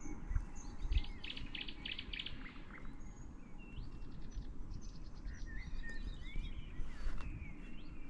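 Several birds chirping and singing, with a fast trill about a second in and short rising whistles later, over a low steady rumble.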